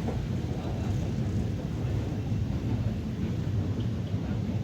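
Steady low rumble of a London Underground Northern Line train running through a deep-level tube tunnel.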